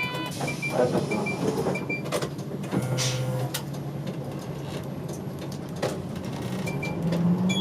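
Inside a route bus at a stop: short high electronic beeps repeat for about the first two seconds, then a brief hiss of air about three seconds in, typical of the doors closing, over the steady low hum of the engine.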